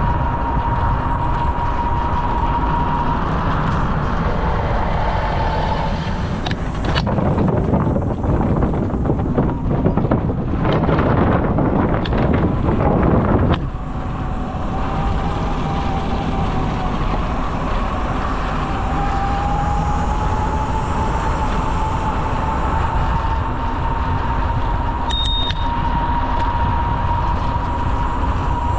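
Steady rolling and wind noise from a bicycle riding along a paved trail, with a thin whine that drifts slightly in pitch. About a quarter of the way in it turns rougher and louder, with knocks and rattles, then settles back to the steady run just under halfway through.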